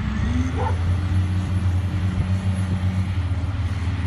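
Diesel engine of a heavy construction machine running steadily, a deep continuous drone.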